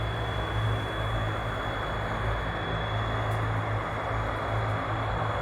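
Rolls-Royce Dart turboprop engines of a YS-11 running steadily: a constant high whine over a low drone and a broad roar.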